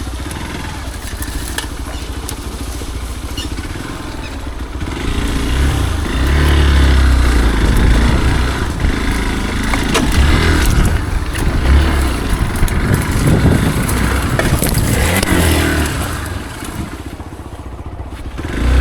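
Motorcycle engine revving up and down on a rough dirt trail, with scattered clicks and rattles. It gets louder about five seconds in and eases off near the end.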